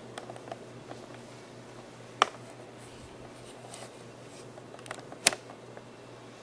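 Quiet room tone with a steady low hum and a few small ticks. Two sharp clicks stand out, about two seconds in and again near five seconds.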